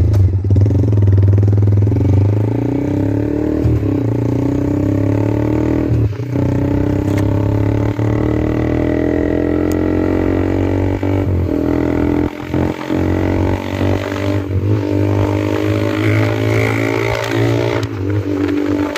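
Yamaha MT-15's single-cylinder engine running loud through an Austin Racing aftermarket exhaust while the bike is ridden. The note climbs slowly and drops out briefly a few times.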